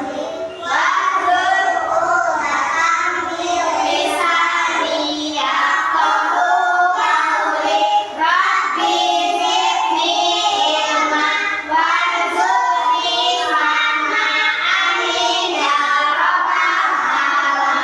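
Children singing a song together, continuously, with hardly a break.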